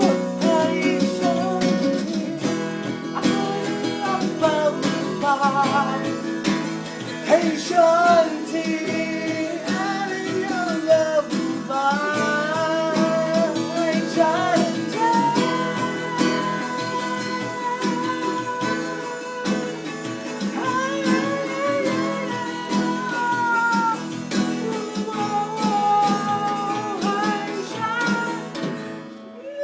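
A song played on acoustic guitar with a voice singing the melody over it, its level dipping briefly near the end.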